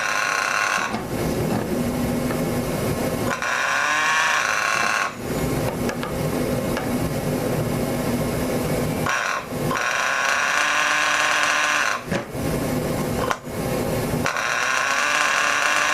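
A small micro mini tractor pulling engine being spun over by an electric starter from a starter box, in repeated spells of a second or three. It is a whining power-tool-like sound, alternating with rougher running in between, as they try to get the engine to fire back up.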